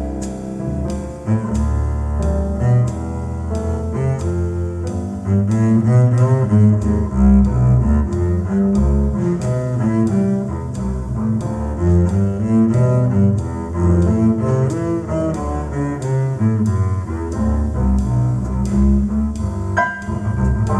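Recorded music played back through Bowers & Wilkins 803 D4 floorstanding speakers driven by a McIntosh MA5300 amplifier, led by a low string instrument in the double bass and cello range playing a busy line of quick notes with a strong low end.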